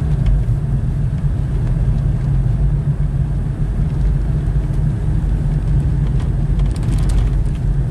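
Steady low rumble of a car driving, heard from inside the cabin, its tyres running on snow- and ice-covered road, with a few faint ticks near the end.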